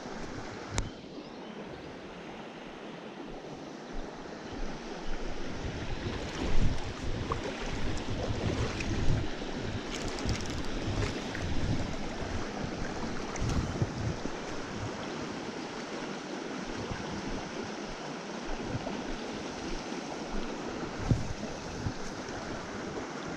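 Small spring creek running steadily, with irregular low rumbles of wind on the microphone that come and go, strongest in the middle, and a few brief knocks.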